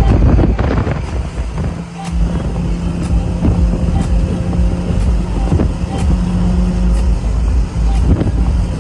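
Straight-piped Audi R8 V10 exhaust running loud under way, its note briefly dropping about two seconds in before picking back up.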